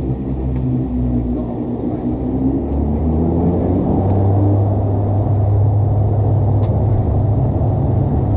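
Bombardier Dash 8 Q400's Pratt & Whitney PW150A turboprop engines and propellers droning, heard from inside the cabin. A high whine rises in pitch over a couple of seconds and the drone grows a little louder as power comes up.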